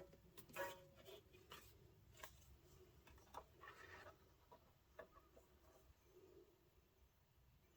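Near silence with faint, scattered taps and light rustling as packaging and devices are handled during unboxing.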